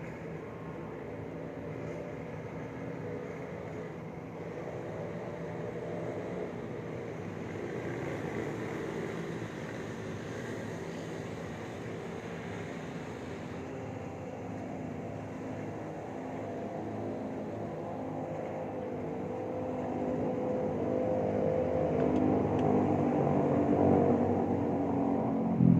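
Steady low hum of motor traffic with an engine-like drone, growing louder over the last several seconds.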